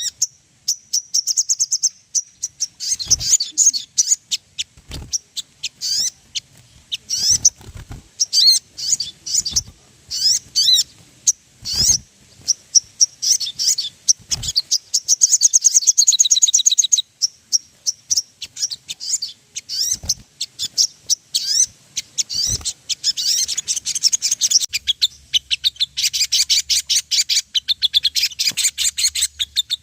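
Sogon songbirds singing: rapid high-pitched chattering, trilling and ticking notes, a long trill about halfway through and fast repeated ticks near the end, used as a lure call to make a caged sogon sing. A few brief dull thumps sound through the song.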